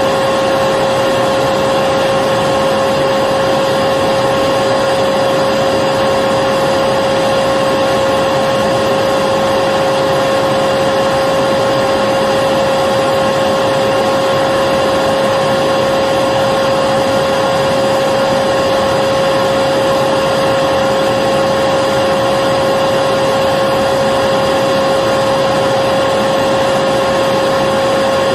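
Electric vacuum cleaner running steadily, a loud constant rushing noise with a steady hum in it that never changes.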